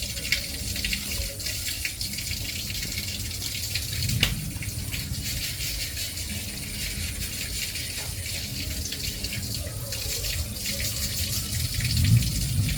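Water splashing with rustling and rattling as fish are picked out of a wet gill net, with a low thump about four seconds in and another near the end.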